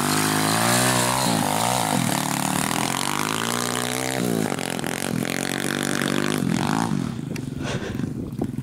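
Pit bike's single-cylinder engine revving hard as it is ridden, the pitch rising and falling several times as the rider accelerates and shifts. It is running on a newly fitted cheap aftermarket carburetor that it takes without tuning. Some clatter near the end.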